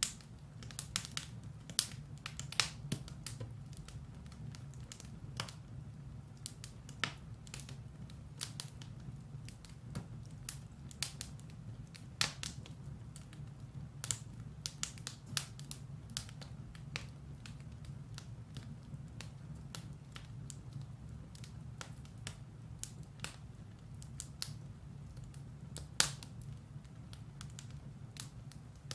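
Firewood burning in a fireplace, crackling with irregular sharp pops and snaps, a few louder ones standing out, over a low steady hum.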